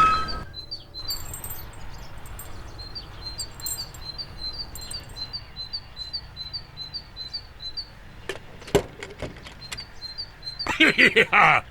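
A small bird chirping over and over, short high chirps at about three a second, over a faint outdoor background. A few clicks come about two-thirds of the way in, and a brief louder voice-like sound near the end.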